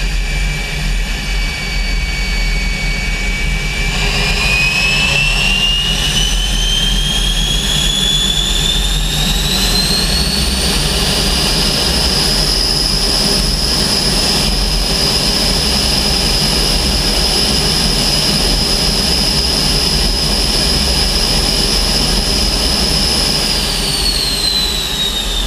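Walter M-701 turbojet of an L-29 Delfin running on the ground: its high compressor whine climbs steadily from about four seconds in as the engine spools up, holds at the higher pitch for about twelve seconds, then starts to fall near the end as it spools back down, over a steady low rumble.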